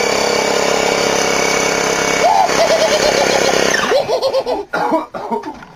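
Corded electric air pump motor running steadily, used to inflate a balloon, cutting off about four seconds in. Voices crying out and laughing over the end of it and after it stops.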